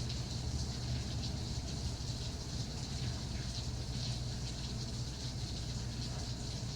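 Steady rain falling in a dense patter, with a steady low rumble underneath.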